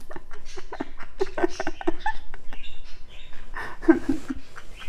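Pet parrot vocalizing: a scatter of short clicks and brief chuckling, laugh-like sounds.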